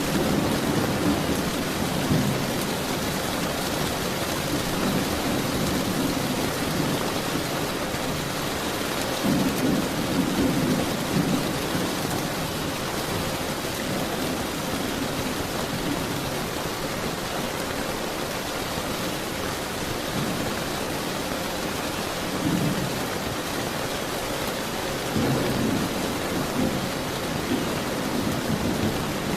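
Steady rain falling, with low rumbles of thunder swelling up about ten seconds in and again a few times near the end.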